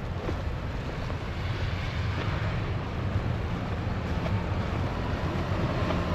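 Strong snowstorm wind buffeting the microphone: a steady rush with a heavy low rumble that slowly grows louder.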